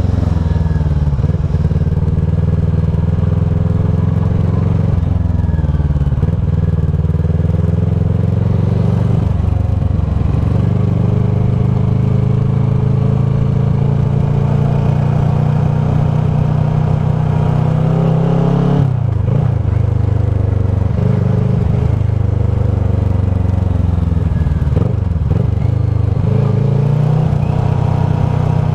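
Kawasaki ER-6f's 649 cc parallel-twin engine running through a Leo Vince SBK slip-on exhaust, its note rising and falling with the throttle. It breaks off and picks up again sharply about two-thirds of the way through.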